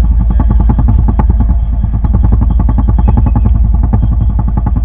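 Boat engine running steadily, a loud, even, rapid pulsing.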